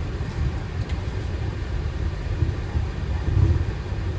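Steady low rumble inside a Boeing 737 cockpit as the airliner taxis with its engines at idle.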